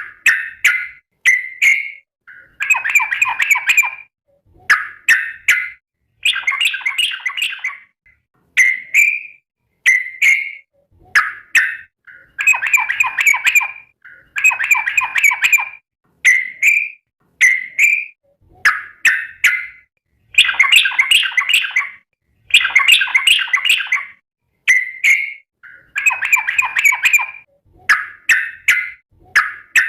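Yellow-vented bulbul (trucukan) singing loud, bubbly, liquid phrases over and over. Short phrases alternate with longer rolling ones of about a second and a half, each followed by a brief pause.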